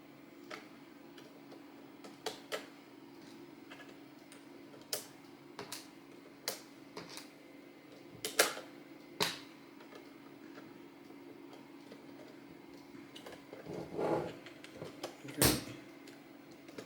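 Hard plastic Lego pieces clicking and knocking, with some snapping, as a loose part is pushed back into a built model. The sharp clicks come irregularly, a few seconds apart, over a steady low hum.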